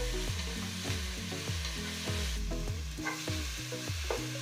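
Chopped onions and tomatoes sizzling in hot oil in a nonstick kadhai while being stirred with a wooden spatula. Low held notes of background music sit underneath.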